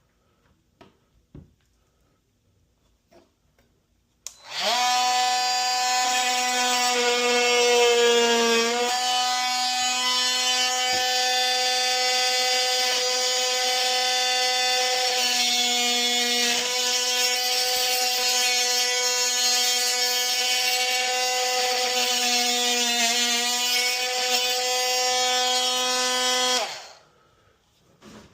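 A power tool motor starts a few seconds in and runs at a steady high whine for over twenty seconds, its pitch dipping briefly a few times as it bears on the work, then stops.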